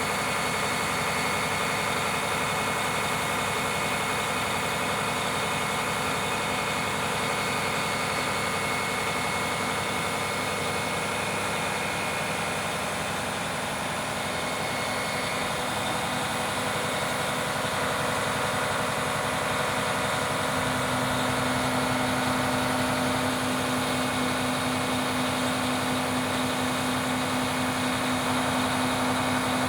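Aerial ladder truck's engine running steadily, with a stronger, higher hum setting in about two-thirds of the way through.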